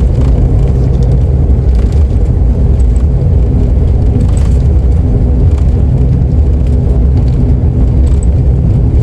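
ATR 72 turboprop heard from inside the cabin, its engines and propellers running as a loud, steady low rumble with a faint hum, as the airliner rolls on the runway just after touchdown.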